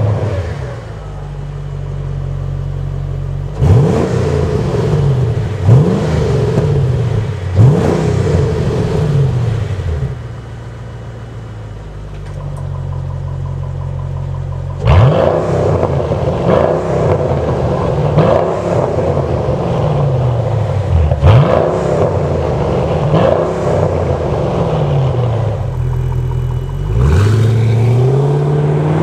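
Mercedes SL55 AMG V8 through an aftermarket valve-controlled exhaust, idling and revved in short blips that rise and fall back to idle. Four blips come in the first third, then a quieter idle, then the idle steps up louder about halfway through with about six more blips.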